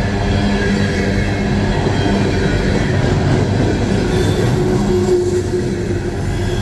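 Empty coal hopper cars of a long freight train rolling past at low speed, steel wheels clattering steadily over the rails, with thin, steady wheel squeal from the curving track.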